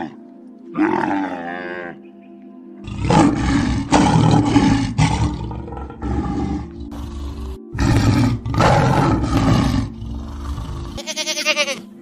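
A run of animal calls over steady background music: a camel calling, then a lion roaring in several long, rough bouts, then a goat bleating with a wavering pitch near the end.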